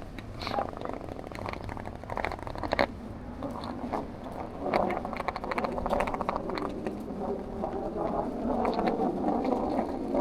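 City street ambience: indistinct voices of passers-by mixed with traffic and scattered small knocks and clicks.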